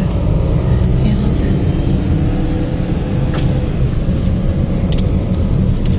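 Steady low rumble of a car's engine and tyres heard from inside the cabin while driving, with a couple of faint clicks about three and a half and five seconds in.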